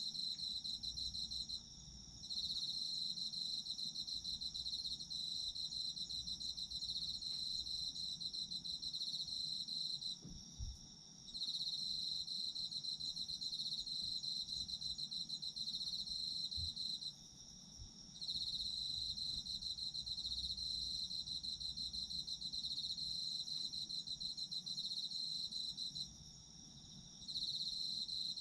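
Autumn insects trilling: one loud, high, rapidly pulsed trill runs in long bouts of several seconds, breaking off briefly four times, while a second, steadier high-pitched insect song continues underneath without pause.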